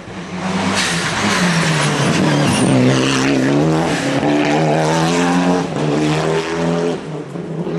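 Rally car engine at high revs, coming up loud about half a second in, its pitch dropping and climbing again several times as it lifts off and accelerates through the gears, with a rush of tyre and road noise early in the pass.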